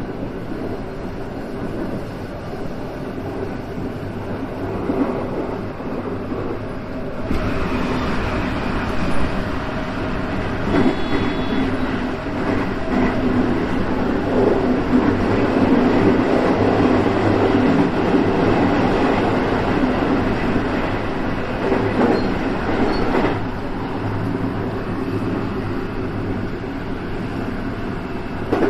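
JR West 223 series electric train running along the track, heard from inside the driver's cab. The running noise turns suddenly louder about seven seconds in as the train enters a tunnel, and drops back about sixteen seconds later as it comes out.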